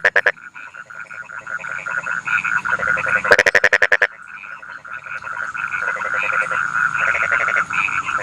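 Rice-field frogs calling in a chorus of fast, pulsed croaks. About three seconds in, one close frog cuts in with a loud burst of rapid pulses lasting under a second.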